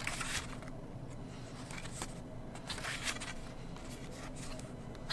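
Glossy photobook pages being turned and handled, giving several soft paper swishes and rustles.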